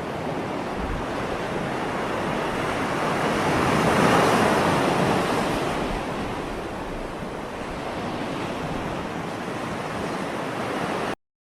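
Ocean surf: a steady wash of waves, with one swell that builds to its loudest about four seconds in and then ebbs away. The sound stops abruptly near the end.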